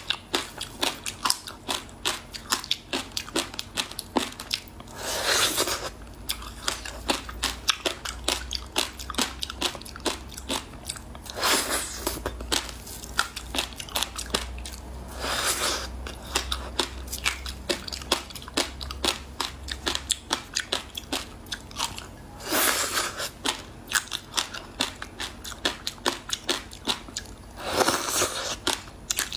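Frozen passion fruit ice being bitten and chewed close to the microphone: quick, continuous crunching, broken by a few longer, louder crunches about every four to six seconds.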